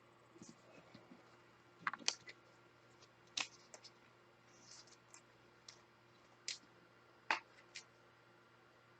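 Faint, irregular clicks and brief light scratches of trading cards and their holders being handled, about a dozen over several seconds.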